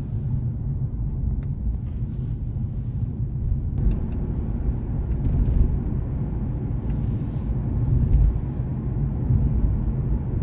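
Car driving on the road, heard from inside the cabin: a steady low rumble of engine and tyres, with a few brief swells of hiss.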